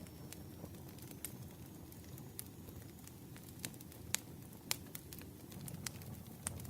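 Campfire burning: a steady low rumble of flames with scattered sharp crackles and pops of burning wood, two louder pops a little after the middle.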